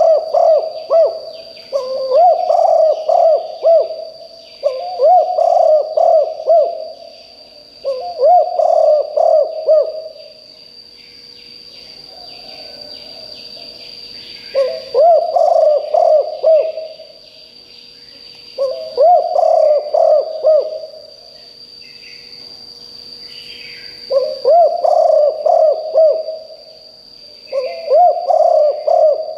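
Spotted dove cooing: phrases of several low coos each about two seconds long, repeated about eight times, with a longer pause in the middle. A steady high whine and faint chirps of other birds run underneath.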